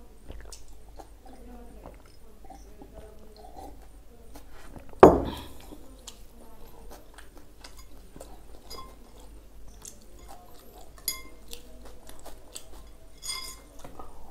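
Close-up chewing and mouth sounds of a man eating soft paratha dipped in tadka curry, with boiled egg. About five seconds in there is one loud thump, and near the end a few light clinks of dishware.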